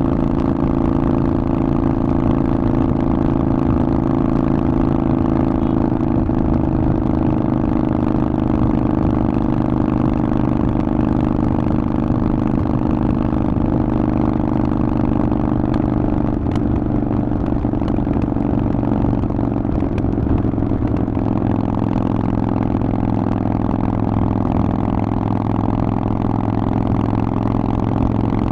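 Harley-Davidson Forty-Eight's air-cooled V-twin running through a Vance & Hines exhaust at a steady engine speed, its note holding nearly even throughout.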